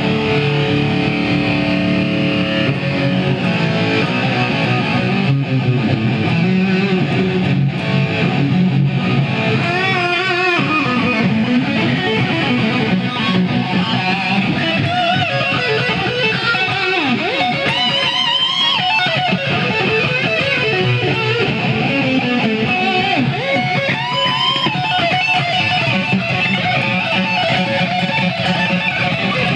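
Electric guitar played solo: an instrumental passage of chords and single-note lines, with string bends and vibrato in places.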